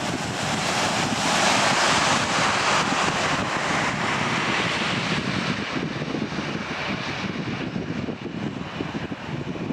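Jet airliner's engines: a steady rushing roar that swells over the first second or two, then slowly fades away.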